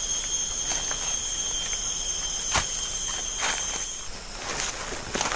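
A loud, steady, high-pitched insect call made of a few level tones, which stops abruptly about four seconds in. Scattered sharp clicks and cracks, like footsteps on twigs and leaf litter, run through it.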